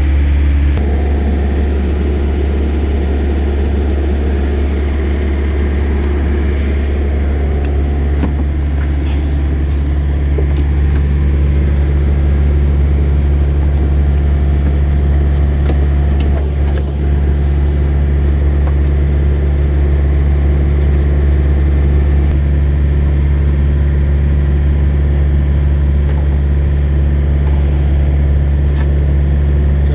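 Steady low drone of an idling truck engine, with a few faint clicks.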